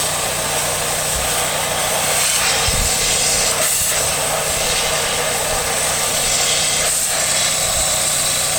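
High-pressure water jet spraying in a steady hiss, with a motor running underneath.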